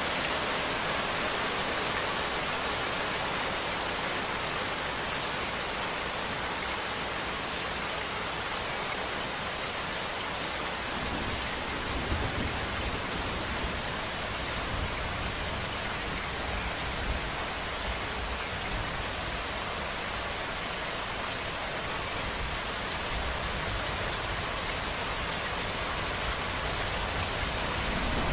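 Steady rainfall, a dense even hiss of drops on a surface; a deeper low rumble fills in underneath from about eleven seconds in.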